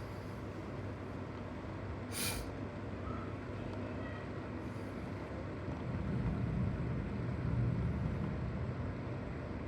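Road vehicle passing with a low rumble that swells from about six seconds in and fades near the end, over a steady background hiss, with a short sharp hiss about two seconds in.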